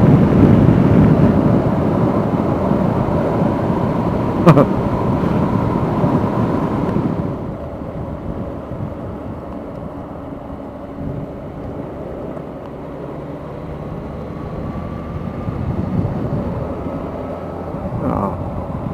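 Motorcycle ride noise: wind rushing over the rider's microphone with the engine underneath. There is a sharp click about four and a half seconds in. About seven seconds in the rushing drops away, leaving a quieter steady engine drone.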